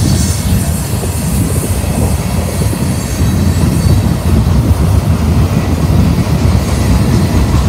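Freight train rolling past close by, a steady heavy rumble of wheels and railcars on the track.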